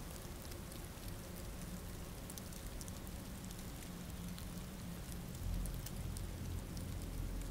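Steady rain ambience: an even hiss with scattered drop ticks. A deep low rumble comes in about two-thirds of the way through.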